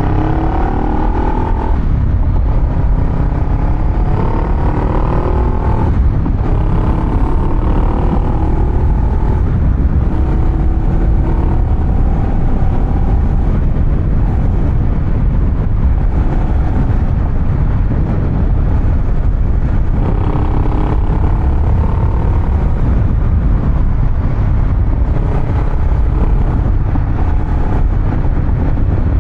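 Honda Rebel 500's parallel-twin engine running through a Vance & Hines exhaust over a constant deep, bassy rumble. Its pitch climbs in several steps in the first several seconds and again about 20 seconds in, then holds steadier in between.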